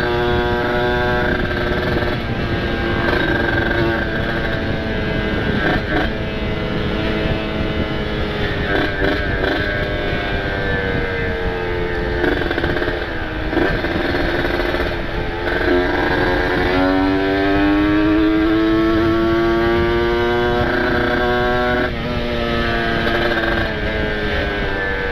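Ported two-stroke single of a Kawasaki Ninja RR being ridden hard: the engine pitch climbs under throttle and falls back at each gear change or lift-off, several times over, with one long climb in the second half before it drops near the end.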